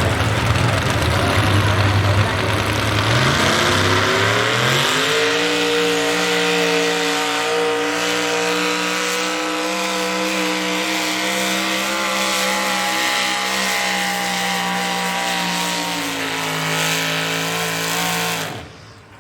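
Modified small-block V8 pulling truck at full throttle: the engine note climbs sharply as the truck launches, then holds at high revs under the load of the pulling sled, and cuts off suddenly near the end.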